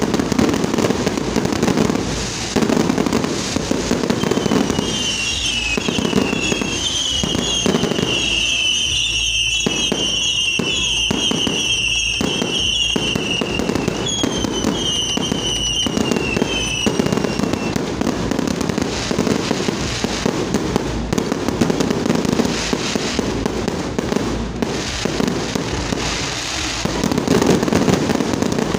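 Fireworks display: a dense, continuous crackle and banging of bursting aerial shells, with a run of high, repeated falling whistles from about five to seventeen seconds in.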